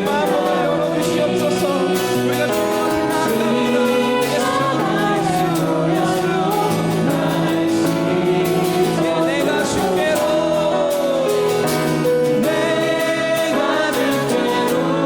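Worship music: a group of voices singing a gospel song with instrumental accompaniment, steady throughout.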